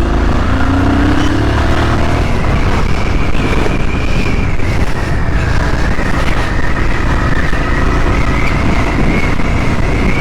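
Royal Enfield Himalayan Scram 411's single-cylinder engine running on the move, its pitch rising over the first couple of seconds as it accelerates, with steady wind and road noise.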